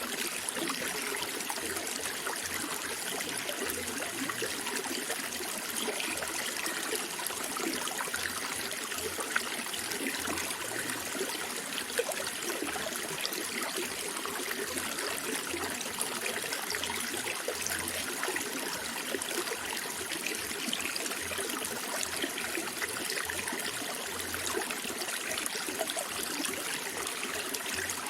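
Water flowing steadily in a small stream, with a continuous trickling, burbling rush and no letup.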